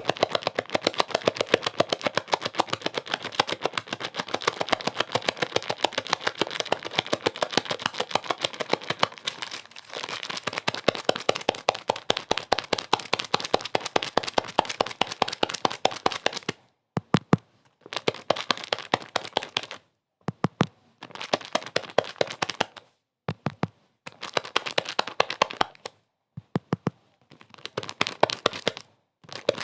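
Dense, rapid crackling made of many sharp clicks. From about two-thirds of the way through it breaks up into short bursts of a second or two with abrupt silences between them.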